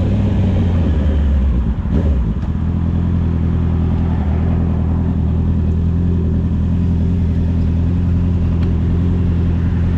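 Honda CB650R's inline-four engine through an Akrapovic exhaust. Its note shifts and drops over the first two seconds, then holds a steady low-revving note.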